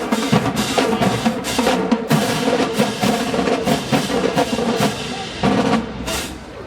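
Marching band playing, with fast drum hits to the fore over sustained pitched tones; it gets somewhat quieter near the end.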